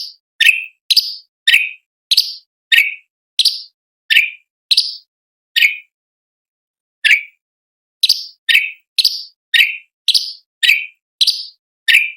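A cucak cungkok (leafbird) calls in a quick series of short, sharp notes, about two a second, each sliding down in pitch. There is a brief pause in the middle before the series picks up again.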